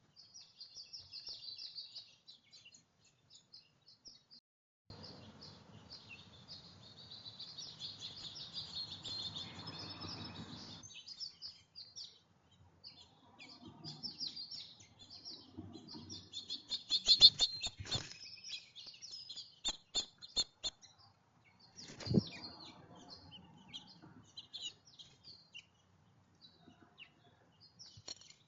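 Small songbirds chirping repeatedly with short, high calls at a feeder. A quick cluster of sharp taps comes about halfway through, and a single knock follows a few seconds later.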